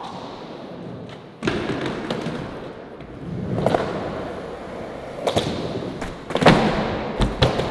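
Skateboard rolling with a string of sharp clacks and thuds as the tail pops and the board slaps down during a flip-trick attempt. The hits come a second or two apart, with several close together near the end.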